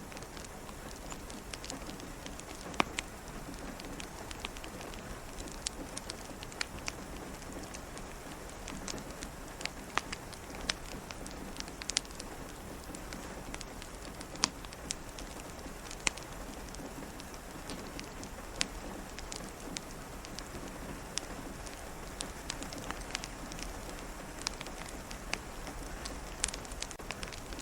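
Steady rain pattering, with a crackling wood fire in a fireplace giving irregular sharp pops every second or two.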